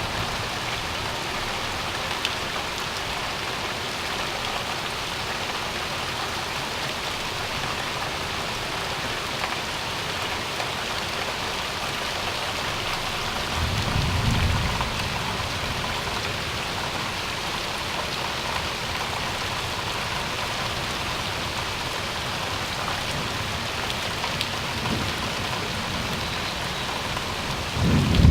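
Steady heavy rain falling and pattering on surfaces, with a brief low rumble about halfway through.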